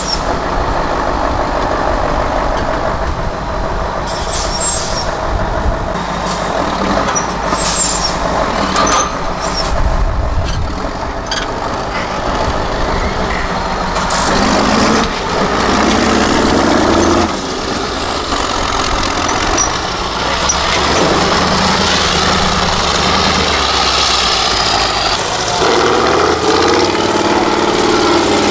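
Diesel engine of an 8x8 Mercedes-Benz off-road trial truck working under load, the engine note rising and falling with the throttle, with short sharp hisses in the first part.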